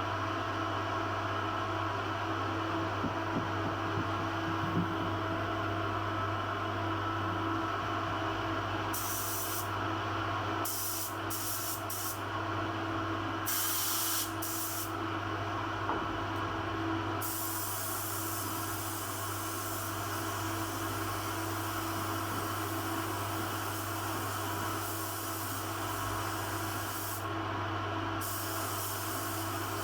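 Compressed-air paint spray gun hissing in on-and-off bursts, the trigger pulled for short passes at first and then for long ones, over a steady mechanical hum.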